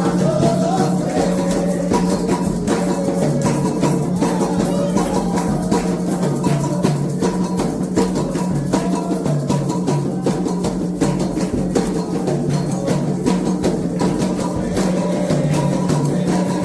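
Candomblé ritual drumming: atabaque hand drums playing a fast, steady rhythm, with voices chanting over it.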